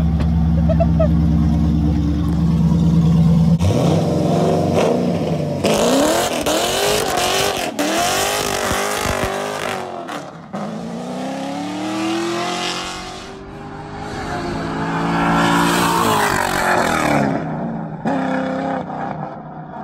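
Car engine running steadily, heard from inside the cabin. After a cut, the engine revs up and down again and again over a loud hiss of tyres squealing as the car slides in a burnout, and later one long rising rev.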